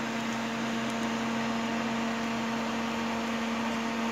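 Thermal Arc 400 GMS welder switched on and idling with its cooling fan running: a steady hum with an even hiss.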